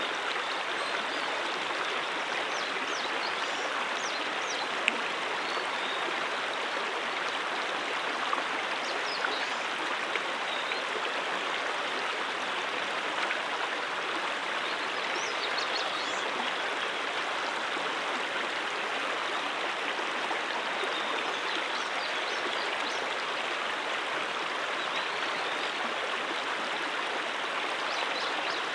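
Mountain stream flowing, a steady even rushing of water with a few brief, sharper splashes between about five and ten seconds in.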